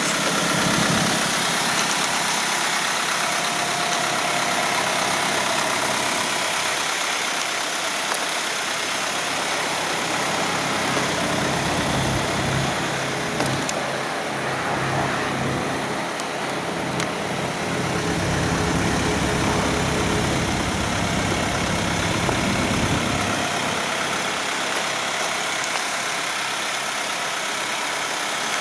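GMC W4500 box truck's engine idling steadily, its low rumble growing stronger through the middle stretch.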